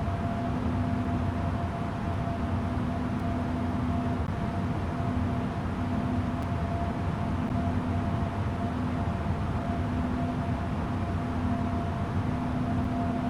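Air Greenland A330neo's Rolls-Royce Trent 7000 jet engines and airflow running steadily: an even rumble with two constant hums, one low and one higher.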